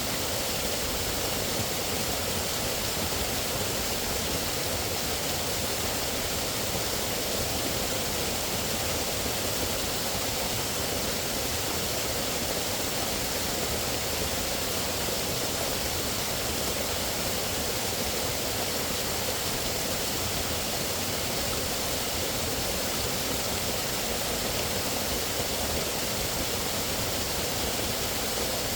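Steady, unbroken rush of running water, even in loudness throughout with no separate events.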